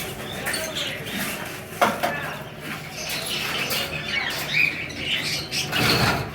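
Caged birds chirping and fluttering their wings, with a sharp knock about two seconds in and a burst of rustling near the end.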